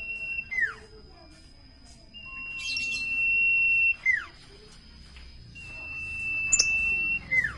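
Common iora singing: a long, steady, high whistle that swells in loudness, then drops sharply into a short falling note. The phrase repeats about every three and a half seconds.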